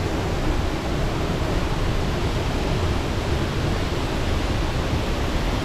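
Waterfall's falling water rushing in a loud, steady, even noise.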